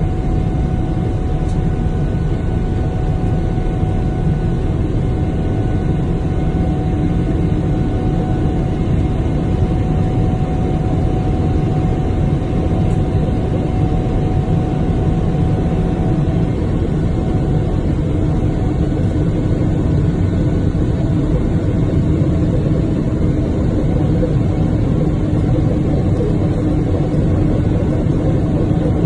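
Airplane engine noise heard from inside the cabin during the flight's start: a loud, steady rumble with a couple of steady tones over it, a lower tone growing stronger past the halfway point.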